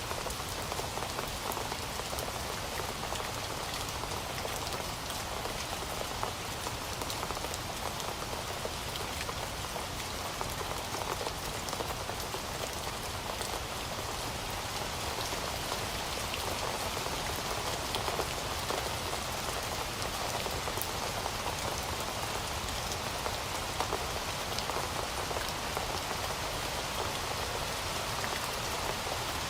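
Heavy rain falling steadily, an even hiss with scattered drops pattering on a surface.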